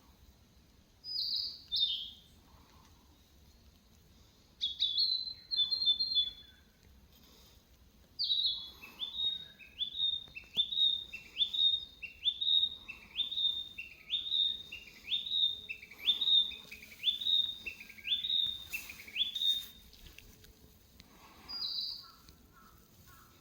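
Small songbird chirping in high, clear notes: a pair of chirps, a short call, then a run of about a dozen repeated notes at roughly one a second, and a last single chirp near the end.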